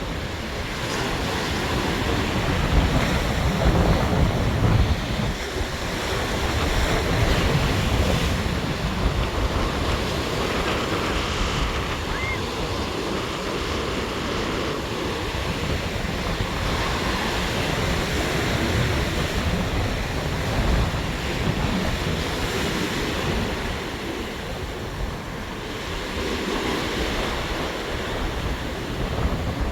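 Rough surf crashing and washing in a squally gale, with gusts buffeting the microphone in a low, uneven rumble that swells and eases every few seconds.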